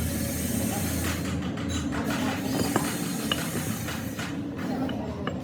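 Steady mechanical rumble of workshop machinery running, with a few light metallic clicks about halfway through.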